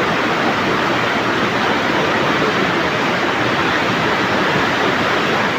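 Fast-flowing floodwater rushing steadily, an even, unbroken noise.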